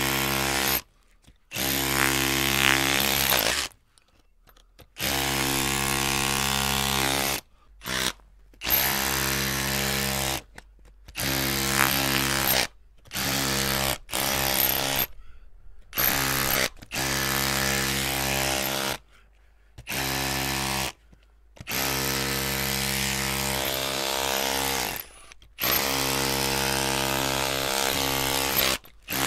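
Electric drill motor running in bursts of half a second to a few seconds, with a steady whine while running, stopping and starting again more than a dozen times.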